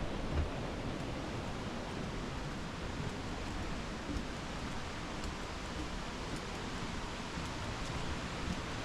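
Steady, even rushing of falling water, the kind a waterfall makes when heard from a lookout.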